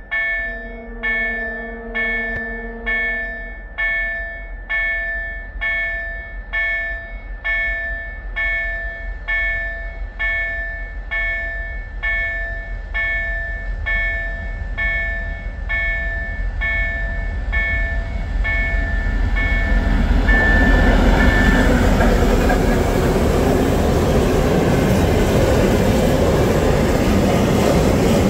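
A level-crossing warning bell rings about once a second, with a train horn sounding one long note near the start. About twenty seconds in the bell stops, and the loud rumble and clatter of a freight train's wagons passing close by takes over.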